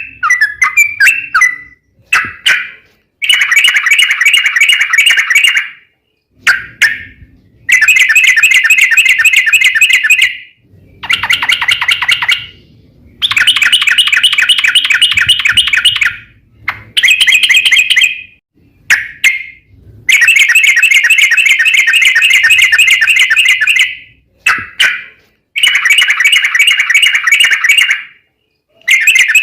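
Yellow-vented bulbul (trucukan) singing in long, rapid chattering bursts of fast repeated notes, each burst lasting a few seconds with short pauses between.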